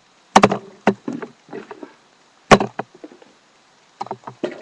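Fireworks packs being handled and put down on a hard surface: a string of sharp knocks and clatters, loudest about half a second in and again about two and a half seconds in.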